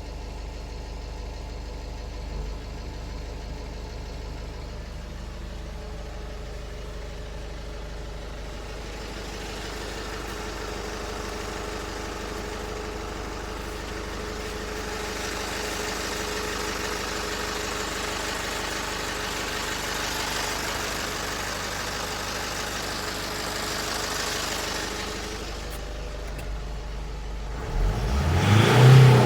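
Nissan Atlas truck engine idling steadily, then revved sharply near the end.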